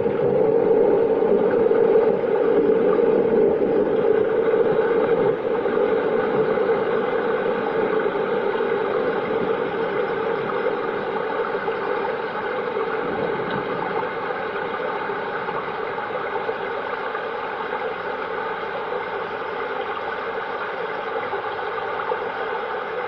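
Steady, dull rain noise with no breaks, easing slightly in loudness over the stretch.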